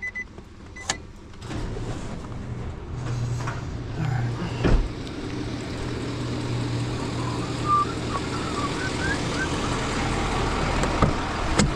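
A car engine running steadily at idle, coming in about a second and a half in after a short electronic chime and a few clicks; a single thump about five seconds in.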